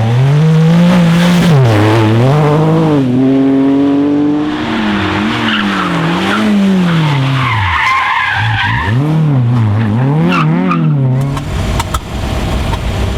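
Rally car engine revving hard, its pitch rising and falling again and again with throttle changes and gearshifts, with tyre squeal partway through as the car slides. Near the end the engine tone gives way to a steadier, rougher noise.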